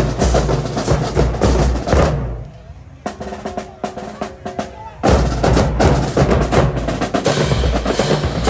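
Marching band drumline playing a fast cadence on snare and bass drums. It drops out about two seconds in, leaving a few sustained tones, and comes back in hard about five seconds in.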